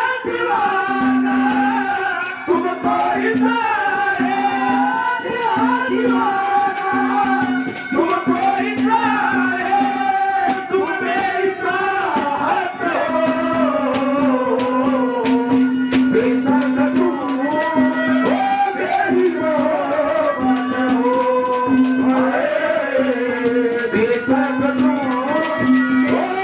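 Haryanvi folk music interlude: a hand drum keeps a fast beat under a wavering, ornamented melody, with a low note pulsing on and off beneath it.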